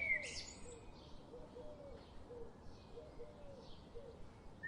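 Birds calling softly: a string of short, low, arched notes repeating every half second or so, with a brighter high chirp at the start and a few faint high chirps.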